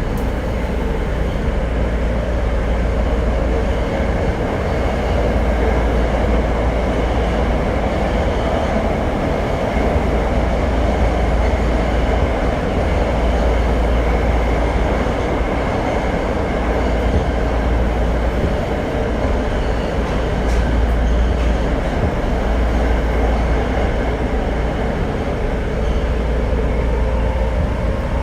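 Tokyo Metro 02 series subway train running at steady speed through a tunnel: a continuous rumble of wheels on rail and traction motors, with a faint motor whine rising a little near the end.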